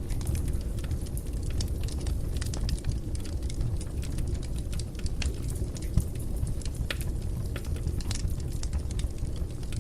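Fire burning in a fireplace, crackling with frequent small pops over a low steady rumble; one louder pop about six seconds in.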